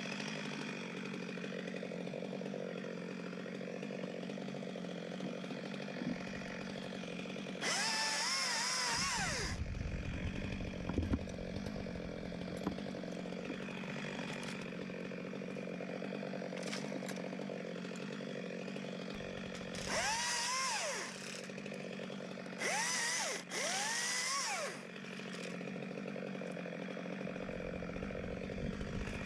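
Two-stroke chainsaw idling steadily, revved up four times, each time its pitch rising and falling back to idle.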